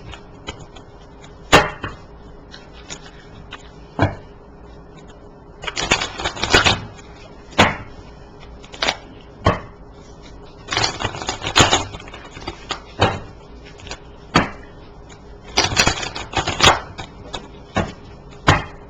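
A deck of oracle cards being shuffled and handled: short bursts of card shuffling in three clusters, with several single sharp taps of cards knocked or set down in between.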